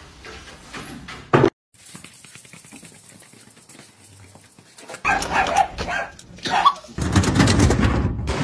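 A dog barking, loudest in the last three seconds or so.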